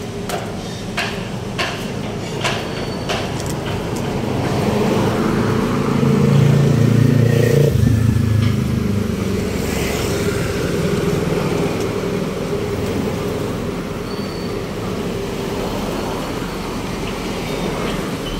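Road traffic with a motor vehicle's engine passing close, swelling to its loudest about six to eight seconds in and then easing back to a steady traffic hum. A few sharp clicks or knocks sound in the first few seconds.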